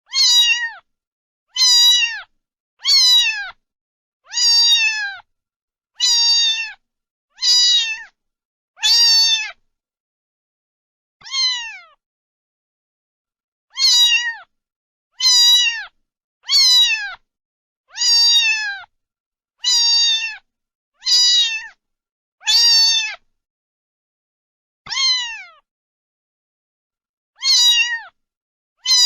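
A cat meowing over and over: about seventeen short, falling meows, nearly alike, with brief pauses and two longer breaks.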